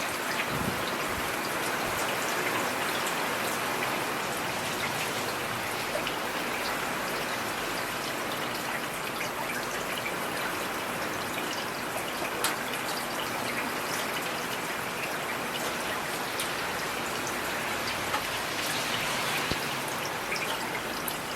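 Steady rain falling on a street: an even hiss of rain with a dense patter of individual drops ticking on hard surfaces.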